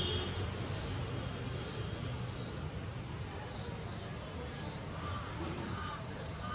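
Small birds chirping outdoors, short high chirps about twice a second, over a steady low background rumble. A lower call joins in a few times near the end.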